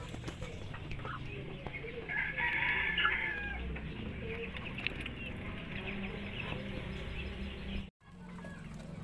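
A rooster crowing once, about two seconds in, over a steady low hum. The sound drops out for a moment near the end.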